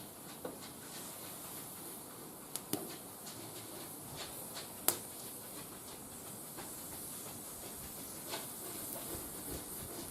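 Wood fire burning in a barbecue grill: a steady hiss with scattered sharp crackles and pops, the loudest a single snap about five seconds in.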